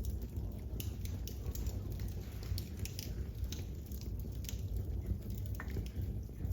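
Fire crackling in a fireplace: scattered sharp pops and ticks over a steady low rumble.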